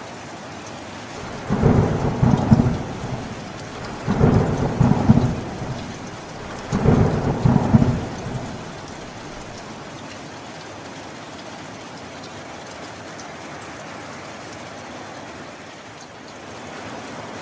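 Steady heavy rain, with three loud rolls of thunder in quick succession, each lasting a second or so, in the first half. Then only the rain continues.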